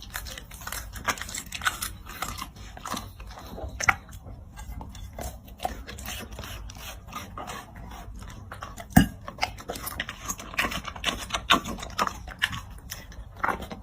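A dog chewing and crunching food, with many irregular bites and crunches. A single louder knock comes about nine seconds in.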